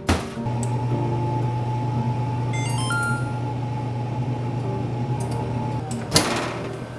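Microwave oven running with a steady electrical hum. It starts with a click, a few short beeps sound about three seconds in, and another sharp click comes about six seconds in.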